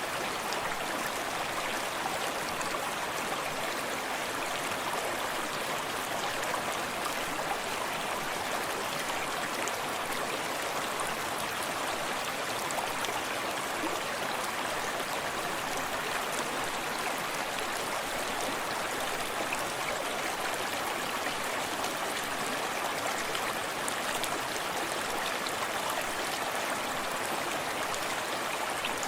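Forest stream running steadily over rocks, with a constant rushing and gurgling of the flowing water.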